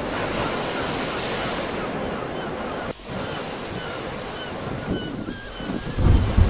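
Sea waves washing continuously onto the shore, with short high chirps in the middle and wind buffeting the microphone with low rumbles near the end.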